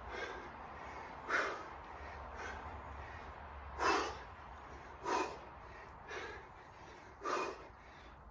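A man's sharp, forceful breaths as he works through kettlebell snatches, about seven in a row, roughly one a second, some louder than others.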